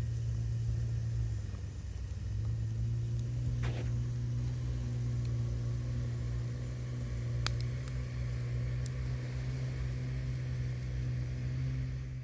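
A steady low mechanical hum, like an engine or motor running, with a few faint clicks about seven to nine seconds in.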